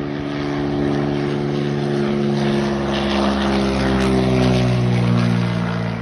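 Crop-dusting light plane's propeller engine flying low past, growing louder and then dropping in pitch as it goes by.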